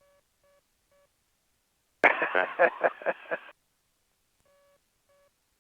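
A short voice transmission over the aircraft radio, about a second and a half long and starting about two seconds in: the voice is thin and narrow like a telephone and opens with a sharp click as the transmitter keys. Faint short beeps come three times near the start and twice near the end.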